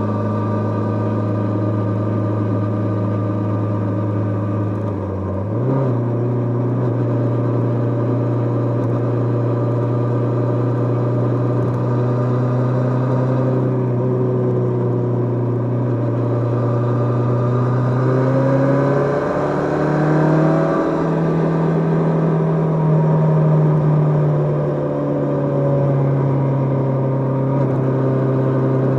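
Kawasaki GPz550's air-cooled inline-four engine running under way at fairly steady revs. The revs dip briefly and pick up again about five seconds in, then rise and waver in pitch about two-thirds of the way through before holding steady again.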